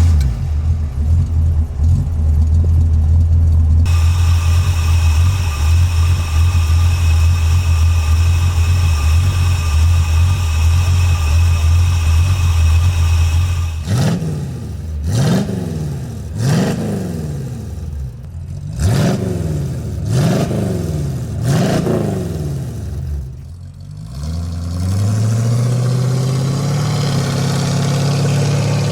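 Ford 351 cubic-inch V8 idling steadily, then revved in a series of quick blips that rise and fall, and near the end brought up to a steady, higher speed.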